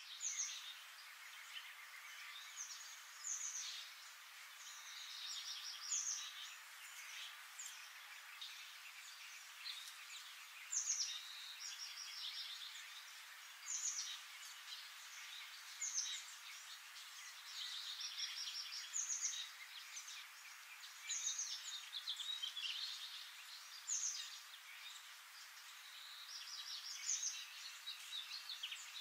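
Birds calling in the trees: short, high, rapidly trilled phrases, some sliding down in pitch, repeating every two or three seconds over a steady outdoor hiss.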